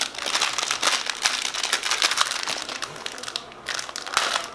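Plastic packaging crinkling and rustling as it is handled and unwrapped: a dense run of crackles that stops briefly a little after three seconds in, then resumes.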